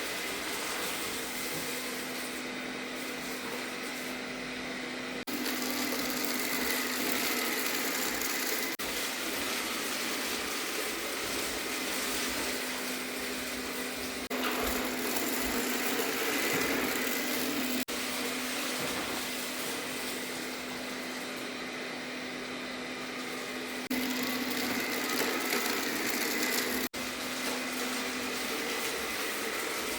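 Arnagar S8 robot vacuum cleaner running on a cleaning pass: a steady motor whirr with a constant hum and a higher whine. The level steps up or down abruptly several times.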